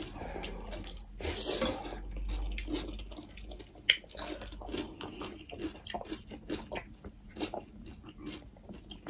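Close-up chewing and lip-smacking of people eating fried chicken and rice by hand: a steady run of short wet clicks and smacks, with one sharp click about four seconds in.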